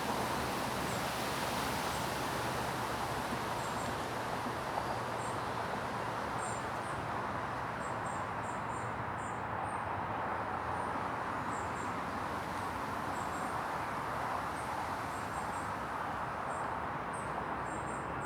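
Steady rushing of wind and rain through woodland trees, with faint, short, high chirps of small birds scattered throughout.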